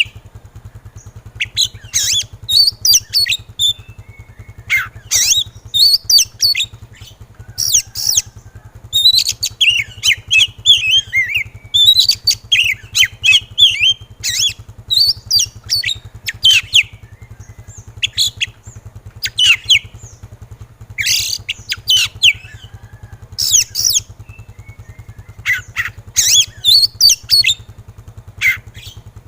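Oriental magpie-robin (kacer) singing in an agitated, fired-up way: short rapid bursts of sharp whistles and chattering notes, about one to two a second with brief gaps, over a steady low hum.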